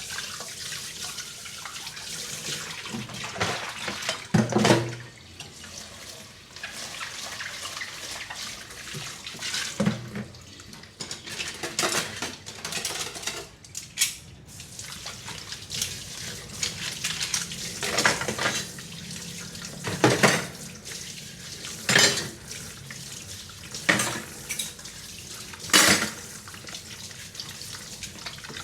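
Dishes being washed by hand in a kitchen sink: water running and splashing, with dishes and cutlery knocking and clinking against each other every few seconds.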